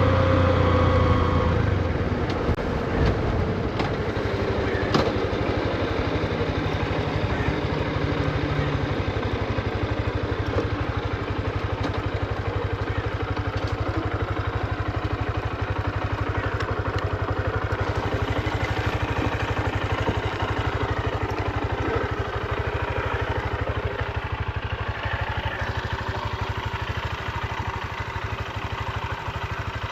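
Honda CB125F's small air-cooled single-cylinder engine. Its pitch falls over the first couple of seconds, then it runs steadily at low revs, as the new engine is kept low in the rev range while it is run in.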